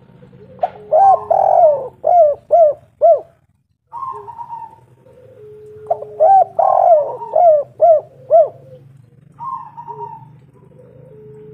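Spotted dove (tekukur) calling: two cooing phrases about five seconds apart, each a run of short rising-and-falling notes, with softer coos in between.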